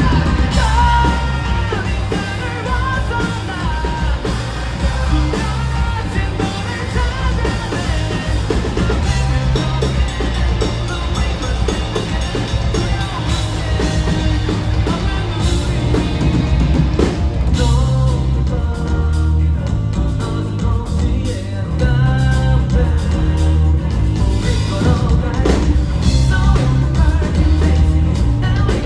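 Rock band playing live, with a sung lead vocal over drums, bass and electric guitar, recorded loud from the audience.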